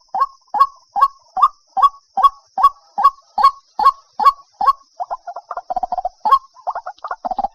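White-breasted waterhen calling: a loud, harsh note repeated about two and a half times a second, breaking into a faster run of short stuttering notes from about five seconds in. A faint steady high hiss sits behind the calls.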